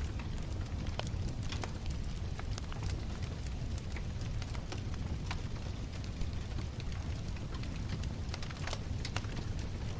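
Wood bonfire crackling, with irregular sharp pops and snaps over a steady low rumble of the burning fire.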